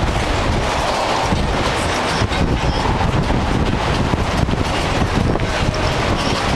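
Strong wind blowing and buffeting the microphone, a loud, unbroken rumbling noise.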